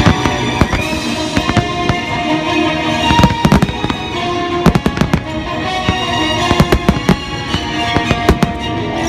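A rapid barrage of fireworks bursting, with many sharp bangs coming thick and fast, over music with long held notes.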